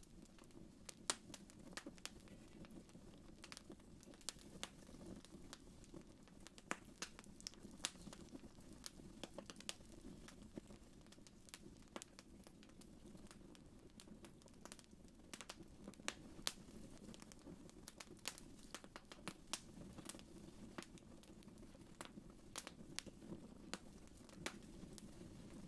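Wood fire crackling in a fireplace, quiet: irregular sharp pops and snaps, several in most seconds, over a steady low rush of the flames.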